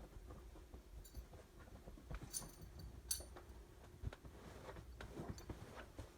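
Faint scattered clicks and a few light metallic clinks, the sharpest about two and three seconds in.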